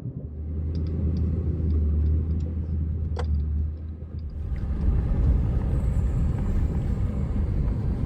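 Dodge pickup truck's engine running with a steady low drone, a few light clicks, and a short sharp chirp about three seconds in. The rumble grows louder and fuller a little past halfway.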